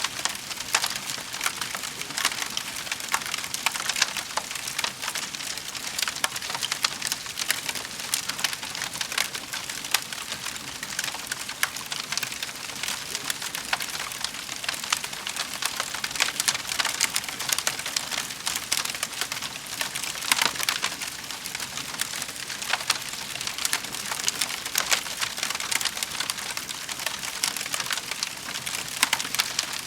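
Wood fire burning in a fireplace, crackling steadily with frequent small pops and snaps over a soft hiss.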